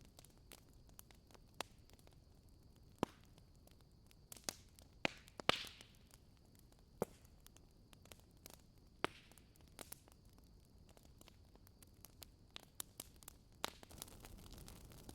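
Fireplace fire crackling: scattered sharp pops and snaps over a faint steady hiss, the loudest pop about five and a half seconds in.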